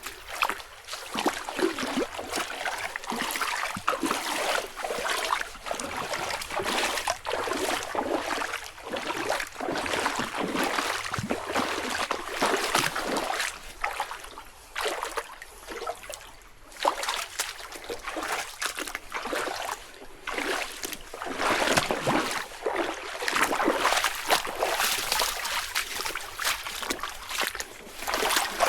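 Footsteps crunching and swishing through forest leaf litter and undergrowth, a step a little under every second, with a short pause about halfway through.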